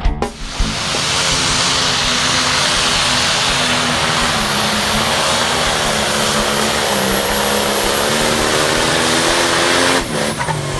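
A truck or tractor pulling engine running hard at full throttle during a pull: a loud, steady engine sound with a dense hiss and a pitch that drifts only slightly. It cuts off abruptly near the end.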